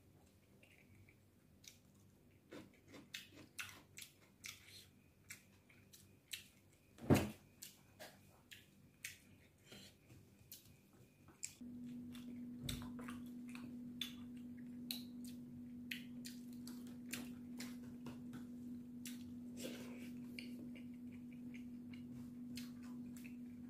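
Close-up chewing and mouth sounds of a person eating rice and side dishes by hand: many short wet clicks and smacks, one louder than the rest about seven seconds in. About halfway through, a steady low hum starts and keeps going underneath.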